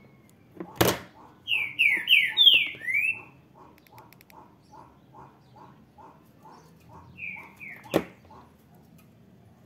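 A bird chirping: a quick run of five sweeping chirps, then two more later, over a soft call repeating about three times a second. Two sharp knocks, about a second in and near the end.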